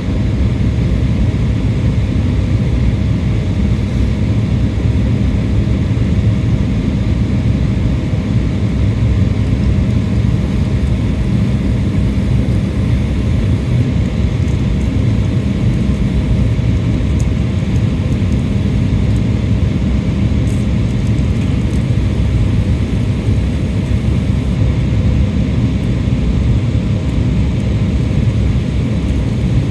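Steady airliner cabin noise in flight: a constant rumble of the engines and airflow, strongest in the low register, with a faint steady hum above it.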